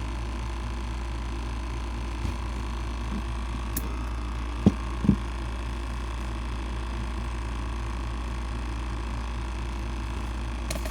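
Steady low hum with a thin, high steady tone, broken by two short knocks about half a second apart near the middle.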